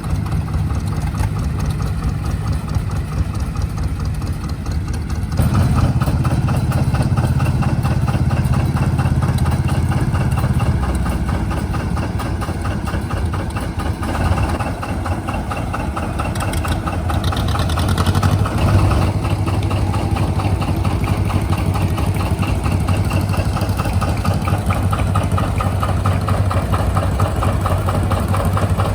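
Antique tractor engines running slowly near idle, a steady low engine note throughout. It gets louder about five seconds in, and the note shifts several times after that.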